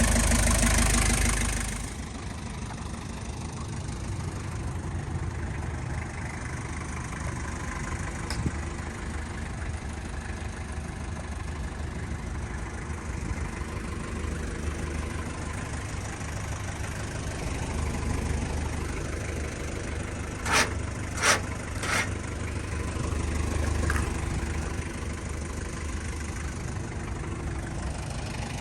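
Mazda R2 diesel engine idling steadily with a diesel knock. It is louder for the first two seconds, then settles to an even idle. Three sharp clicks come close together about two-thirds of the way through.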